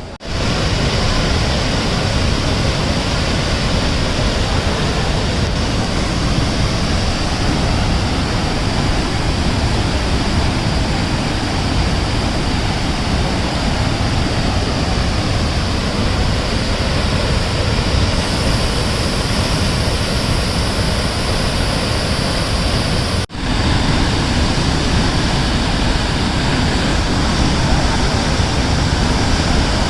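Kapila Theertham waterfall in full flood from cyclone rains: a loud, steady rush of heavy falling water, broken once by a brief dropout about two-thirds of the way through.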